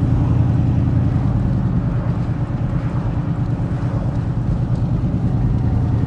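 A vehicle engine running steadily, a loud low drone that holds level throughout.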